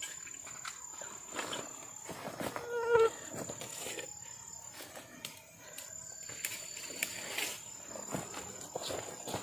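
Night insects in tropical forest, a steady high-pitched trill that breaks off and starts again, over scattered clicks and knocks. A brief pitched sound about three seconds in is the loudest event.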